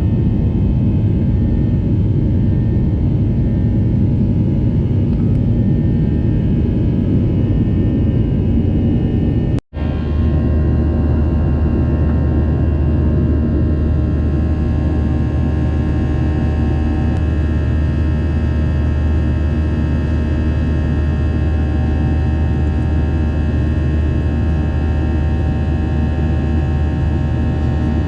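Steady jet engine and airflow noise inside the cabin of a Boeing 737 airliner: a heavy low hum with several thin, constant whining tones above it. The sound drops out for an instant about ten seconds in, after which a deeper steady drone is stronger.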